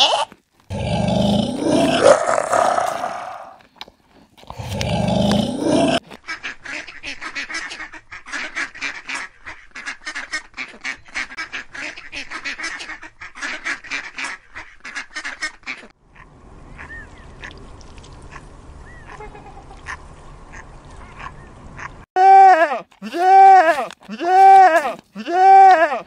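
A goat bleating twice, then Canada goose goslings peeping in many quick high chirps. Near the end, goats bleat in a run of loud, evenly spaced calls.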